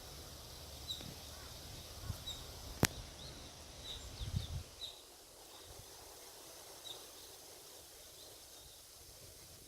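Forest ambience: a steady high hiss with short, high chirps repeating every second or so, one sharp click about three seconds in, and a few low thuds about four seconds in.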